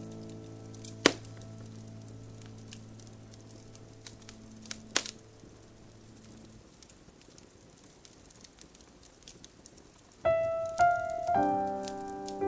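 Campfire crackling, with two sharp pops, while a held piano chord dies away. After a few seconds of crackle alone, the piano comes back in with a few single notes and then a chord near the end.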